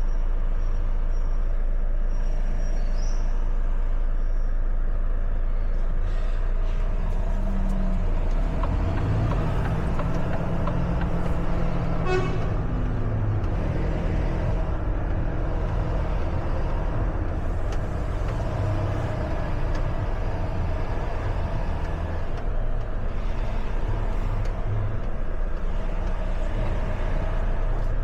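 Truck engine running, heard from inside the cab: steady at first, then its note changes and grows fuller about eight seconds in as it takes up load. A brief quick run of ticks sounds about twelve seconds in.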